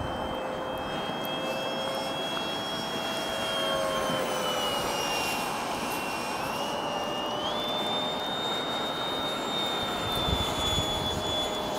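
Starmax F-22 radio-controlled model jet in flight: a high whine over a rushing noise, its pitch sagging about five seconds in, then stepping up higher around seven seconds and holding.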